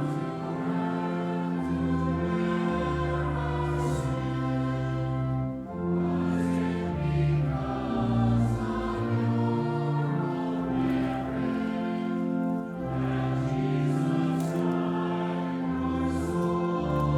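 A hymn sung by a congregation with instrumental accompaniment, moving slowly from one held chord to the next over a sustained low bass line.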